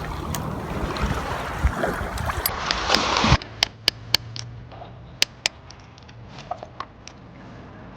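Seawater washing and splashing among shoreline rocks. It cuts off abruptly a little over three seconds in, leaving a quieter background with scattered sharp taps and clicks.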